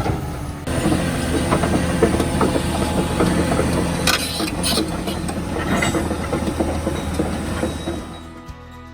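Heavy tracked earthmoving machine working rock: a diesel engine running steadily under scattered clanks and scraping of steel on rock. The machine noise fades about eight seconds in as music starts.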